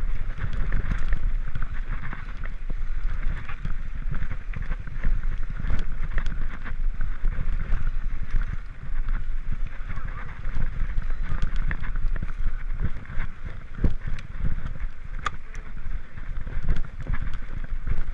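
Wind buffeting the microphone of a camera on a mountain bike descending a dirt singletrack trail, over a steady rumble with scattered clicks and knocks from the bike rattling over the rough ground.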